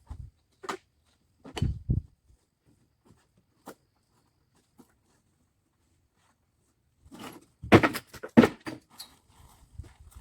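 Thuds and scuffs of heavy bags of sand and cement being handled, with footsteps. There are two louder bursts, one about two seconds in and one about three-quarters of the way through, with only a few light knocks between.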